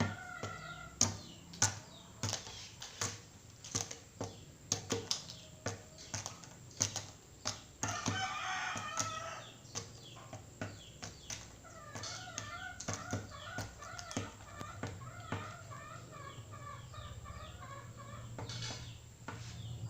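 Rooster pecking at flakes, a quick irregular series of sharp taps. About eight seconds in it gives a short loud call, and from about twelve seconds on it makes soft wavering clucks between pecks.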